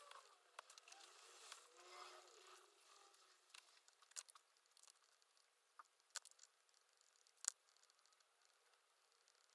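Near silence with faint rustling for the first few seconds, then a handful of small sharp clicks: pen and paper handling at a desk while studying.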